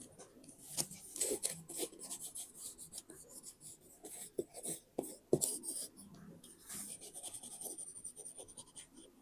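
Scrapbook paper being handled close up: a run of short crisp rustles, scrapes and light taps, with one sharper tap a little past halfway and a steadier scratching stretch about two-thirds of the way in.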